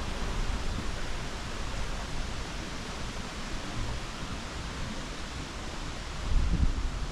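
Steady rushing of a stream's running water and wind through the trees, with wind buffeting the microphone in low rumbles near the end.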